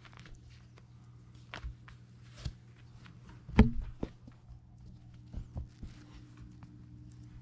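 Light thumps and taps, scattered and irregular, with one louder thump about three and a half seconds in, from cats pouncing on a toy. A steady low hum runs underneath.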